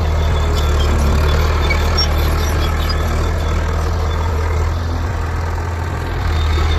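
Heavy diesel engine running steadily with a deep, low drone, easing off a little for a second or so before picking up again near the end.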